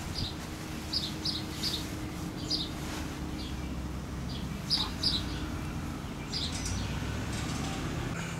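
Birds chirping: scattered short, high chirps, several in quick pairs, over a low steady hum.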